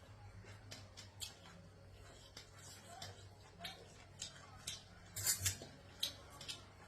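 Eating utensils clicking and clinking against a dish in irregular sharp taps, with a louder cluster of clinks about five seconds in.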